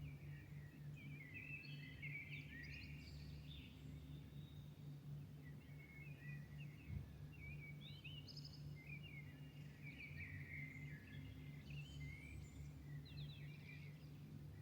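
Songbirds singing at dawn: clusters of quick, high, chirping phrases, faint over a steady low hum and a distant low rumble.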